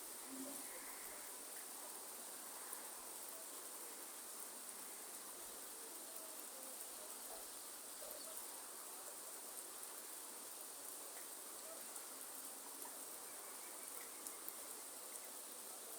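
Steady rainforest rain ambience: an even hiss of falling rain with scattered small drip ticks, under a continuous high-pitched drone of insects.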